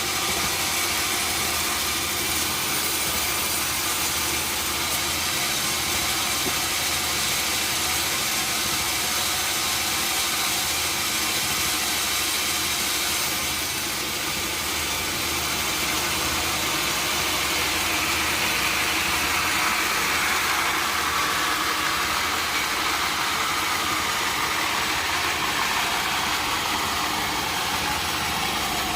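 Sawmill machinery running steadily: a loud mechanical drone with some rattle. From about two-thirds of the way through, a whining tone comes in and slowly falls in pitch.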